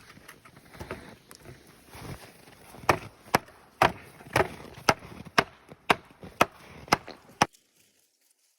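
A run of about ten sharp knocks, evenly spaced at about two a second, that stops suddenly; softer scattered rustling comes before them.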